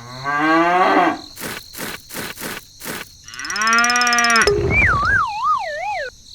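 Cartoon-style sound effects. A drawn-out pitched call rises in pitch, a quick series of sharp knocks follows, then a second long call, then a wavering tone that slides downward in pitch like a falling slide whistle.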